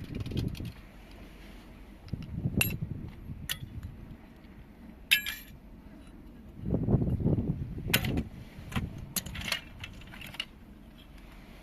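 Scattered sharp clicks, taps and clatters of small hard parts being handled and knocked together, with a few dull handling thumps between them.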